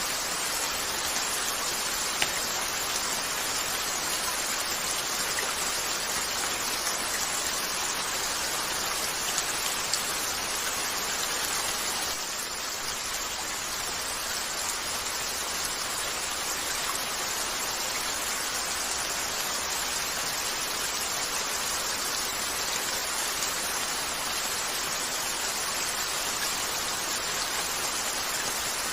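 Steady rain falling on a window, a constant even hiss, with a few isolated sharp crackles from a fireplace.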